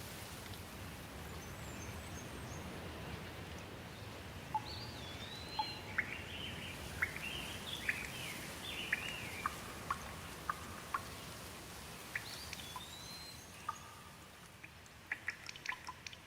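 Steady patter of rain with birds calling through it, a cluster of short chirps in the middle and a few rising, arching calls. Near the end a quick run of sharp water drips sets in.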